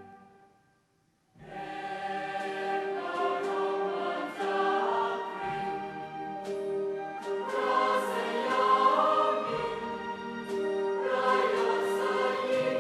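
Choir singing with an orchestra, breaking in after about a second of silence at the start.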